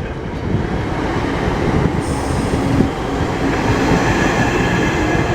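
Two coupled Class 465 Networker electric multiple units running through the station. A dense rumble grows louder over the first second or two, with faint steady tones over it.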